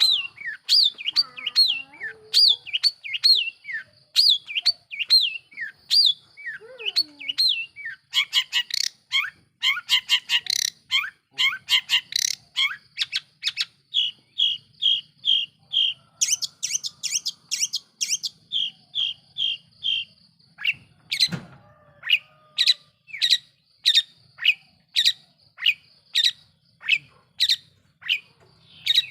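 Long-tailed shrike singing hard: a fast, varied string of sharp chirps and sweeping notes. In the middle come runs of quick repeated notes, and near the end it settles into evenly spaced calls about two a second.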